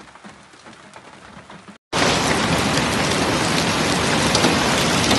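Rain pattering lightly at first; then, after a brief break, heavy rain pouring down on paved ground, loud and steady.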